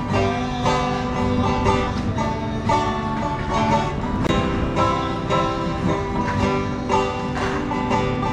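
Acoustic folk music on plucked string instruments, with a steady strummed and picked rhythm.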